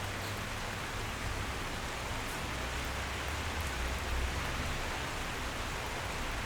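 Steady, dense rain falling, an even hiss of many drops, with a low rumble underneath that swells briefly around the middle.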